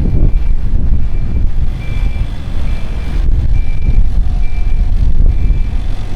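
An electronic beeper sounding a short high beep evenly, a little under once a second, over a heavy low rumble of street noise.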